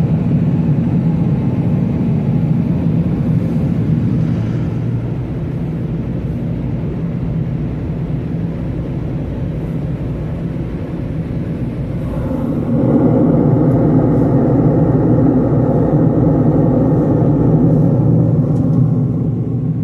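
Automatic car wash machinery running with a steady rumble. About two-thirds of the way through, a louder, brighter rush of air or water comes in and holds for several seconds, then eases off near the end.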